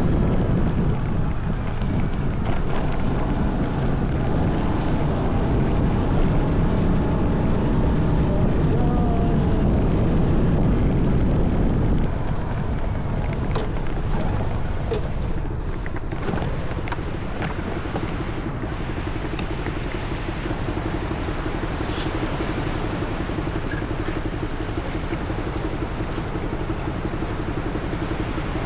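Daelim Citi Ace small motorcycle running on the move, with wind rumbling on the microphone. The heavy low rumble drops about twelve seconds in, and a steadier engine note comes through in the later part.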